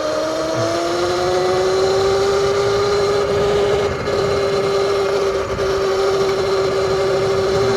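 Sur-Ron Light Bee electric dirt bike's motor and chain drive whining under way. The pitch rises over the first two seconds as it speeds up, then holds steady over a rushing noise.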